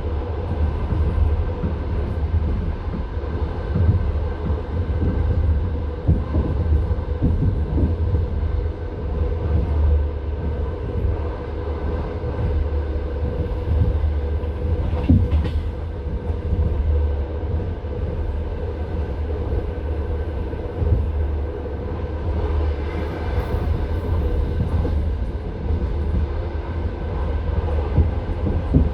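Passenger train running at speed, heard from inside the carriage: a steady low rumble of the wheels on the track with scattered clacks and knocks as the wheels pass over the rails.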